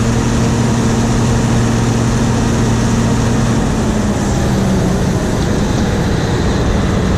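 John Deere 7720 combine running steadily; its engine note drops slightly in pitch a little past halfway.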